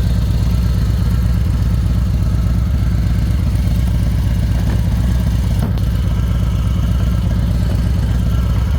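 2024 Harley-Davidson Road Glide's Milwaukee-Eight 117 V-twin idling steadily, with a single brief click a little past the middle.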